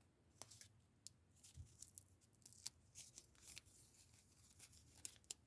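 Faint crinkling and ticking of washi tape being peeled from its backing paper, in short scattered scrapes.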